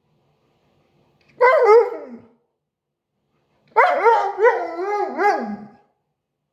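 Husky 'talking': two drawn-out howl-like vocalizations, a short one about a second and a half in and a longer one near the end whose pitch rises and falls several times, like mock speech.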